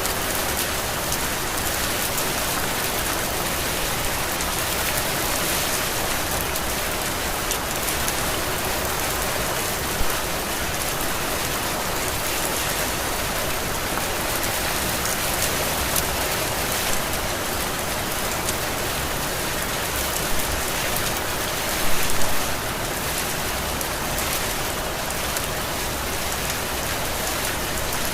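Heavy rain falling steadily, with a few brief louder splashes, the biggest about three-quarters of the way through.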